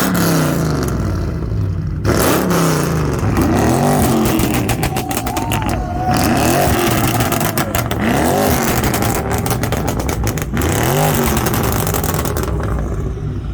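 A car engine revved hard several times, each rev rising and falling in pitch, with sharp cracks between the revs.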